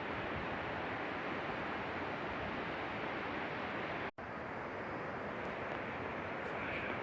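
Steady rushing roar of a large waterfall's falling water, briefly cut off for a split second about four seconds in.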